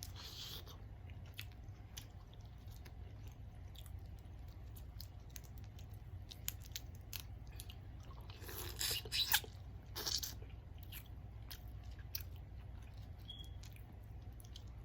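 A person chewing seafood boil food close to the microphone: faint, wet mouth clicks throughout, with a few louder bites about eight to ten seconds in.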